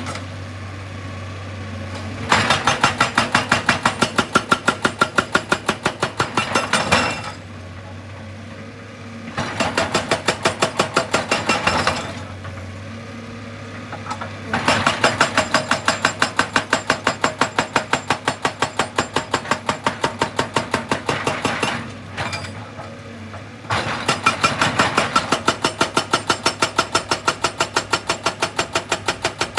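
Excavator-mounted hydraulic breaker hammering rock in four long bursts of rapid, even blows, about five or six a second, with the excavator's diesel engine running steadily in the pauses.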